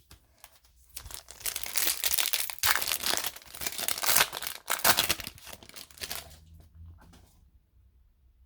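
Foil trading card pack wrapper crinkling and tearing, a dense crackle for about five seconds that fades out.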